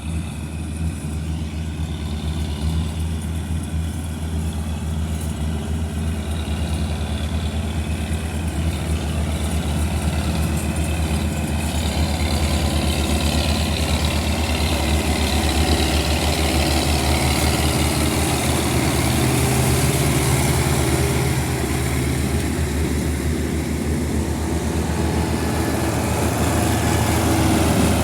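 Heavy vehicle's diesel engine running steadily with a deep, even hum, growing gradually louder from about halfway through.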